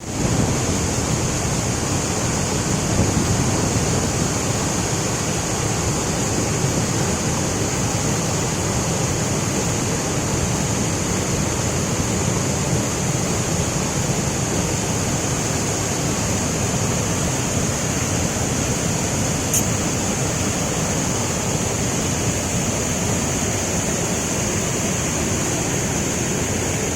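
Waterfall's water pouring and crashing in a steady, unbroken rush with a strong hiss.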